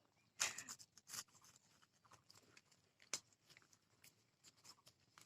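Crisp salted biscuits crunching as they are bitten and chewed: a few sharp crunches, the loudest about half a second in and near the three-second mark, with fainter chewing between them.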